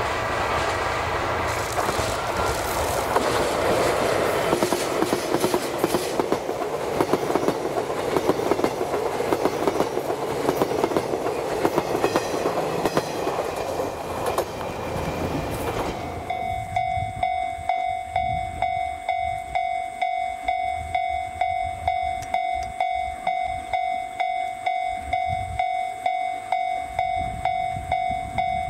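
Diesel-hauled train passing, its wheels clacking over rail joints. About two-thirds of the way through it gives way abruptly to a railway level-crossing warning bell, a ringing electronic tone repeating about twice a second.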